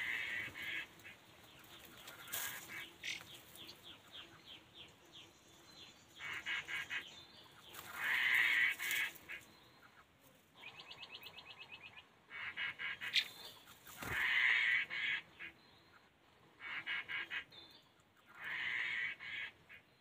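Wild songbirds calling in repeated loud bursts of fast, harsh chattering notes every two seconds or so, with one quick even rattle of notes midway. There is a single sharp knock a little after the middle.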